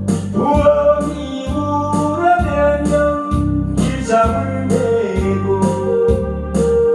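Trot song accompaniment: electronic organ and keyboard melody over a sustained bass line, with a steady drum beat about twice a second.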